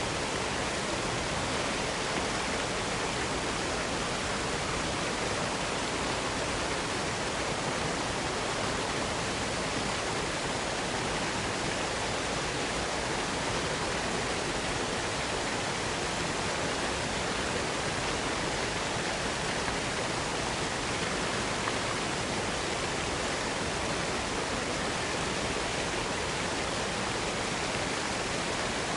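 Waterfall pouring steadily: an even, unbroken rush of falling water with no changes.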